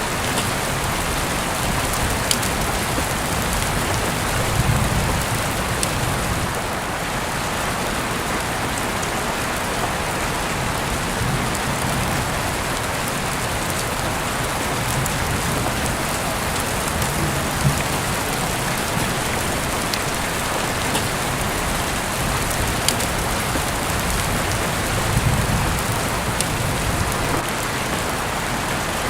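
Steady heavy rain falling on a surface, an even hiss with a few sharp individual drop ticks. A soft low rumble swells twice, about five seconds in and near the end.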